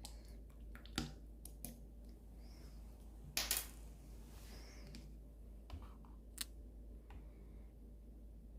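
Slime being pressed and stretched by hand: scattered small sticky clicks and pops, with a brief louder squelch about three and a half seconds in.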